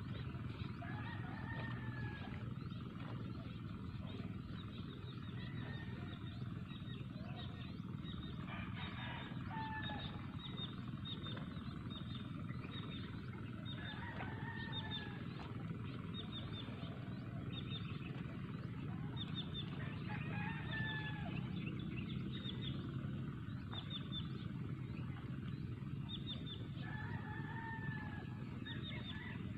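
Birds in the open: short high chirps throughout, and a short curving call that comes back about every six seconds, over a steady low rumble.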